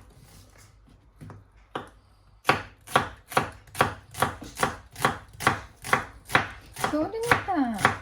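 Knife chopping an onion on a cutting board: a few scattered taps, then from about two and a half seconds in a fast, even run of cuts, about four to five a second.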